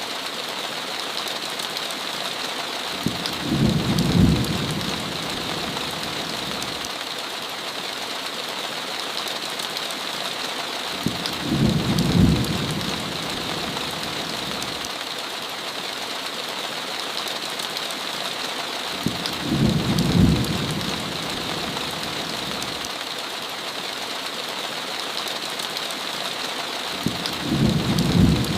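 Heavy rain falling steadily, with a short low rumble of thunder that swells and fades four times at evenly spaced intervals of about eight seconds.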